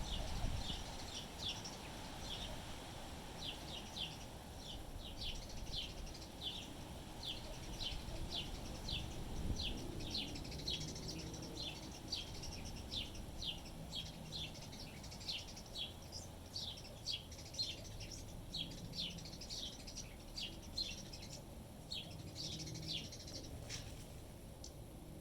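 A small bird chirping over and over: short, sharp chirps that drop in pitch, about two a second, over a low rumble of wind.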